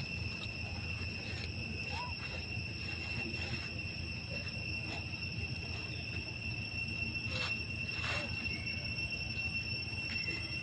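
Insects keep up a continuous high-pitched drone, one steady tone with a fainter, higher one above it, over a low steady rumble. A couple of faint clicks come near the end.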